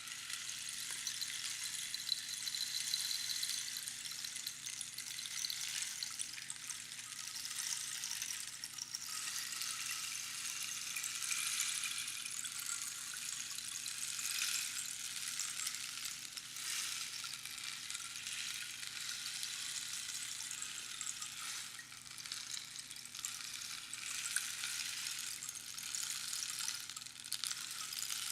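Rainstick: small pebbles or beads trickling down the hollow tube past its inner pins, making a continuous high, hissing patter like falling rain. It swells and eases slightly every few seconds.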